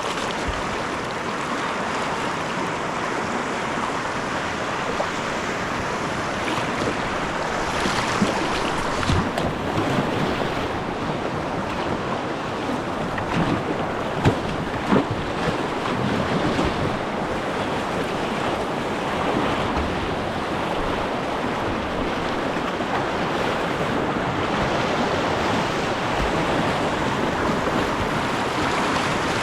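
River water rushing and splashing around a kayak, a steady wash, with a few sharp knocks about halfway through.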